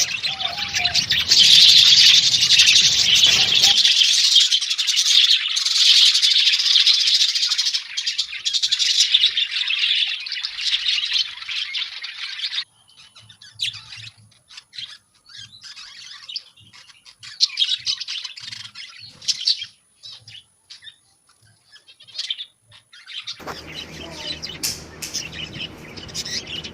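Many small birds chirping together in a dense, high-pitched chatter that stops suddenly about halfway through. Scattered single chirps follow, then a short near-silent pause before background noise and a few chirps return near the end.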